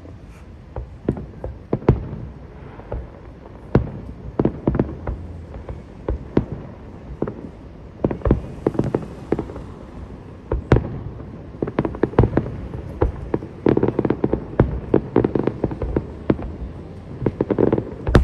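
Aerial fireworks bursting: a string of sharp bangs, scattered at first and coming thicker and faster in the second half.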